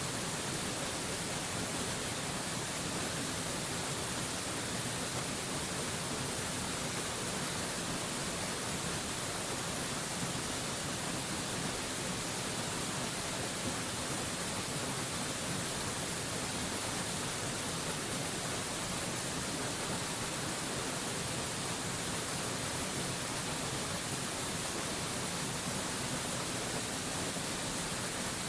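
Mountain waterfall rushing, an even, unbroken hiss strong in the high end that never changes.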